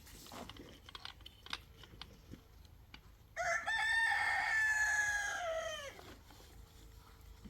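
A rooster crowing once, a single call of about two and a half seconds that starts about three seconds in and drops in pitch at the end. Faint scattered taps come before it.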